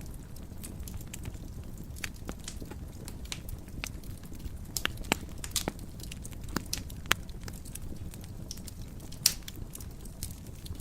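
Wood fire burning in a fireplace: irregular sharp crackles and pops over a steady low rumble of the flames, with a louder pop near the end.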